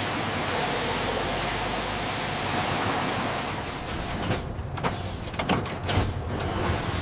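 A steady rushing noise, giving way after about three and a half seconds to a run of irregular mechanical knocks and clatter.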